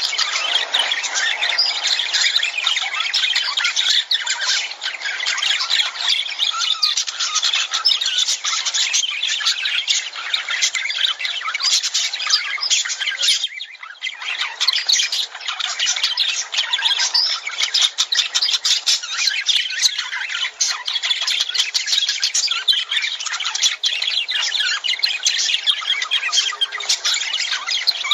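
A flock of lovebirds chattering, with a dense, constant stream of short, high squawks and chirps and a brief lull a little past halfway.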